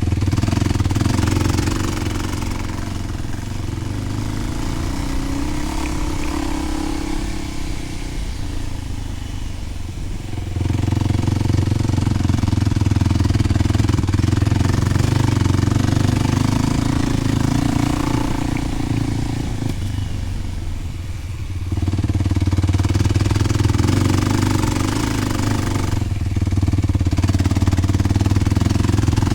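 Kawasaki KLX300 single-cylinder four-stroke engine running through a Delkevic 10-inch oval slip-on exhaust, the bike under way. The exhaust note steps up sharply under throttle about a third and about two thirds of the way through, and eases off in between.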